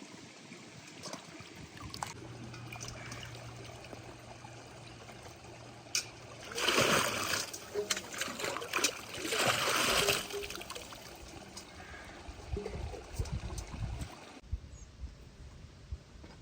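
Water trickling and splashing, with two louder spells of splashing just past the middle, each about a second long.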